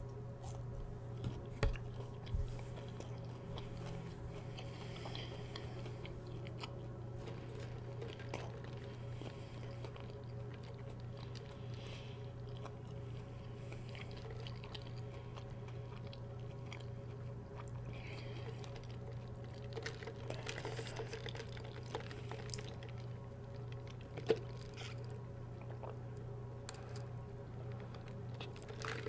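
Close-miked chewing of a breaded fried chicken tender: soft crunching and wet mouth sounds that come and go, over a steady low hum. There are a couple of low thumps about two seconds in.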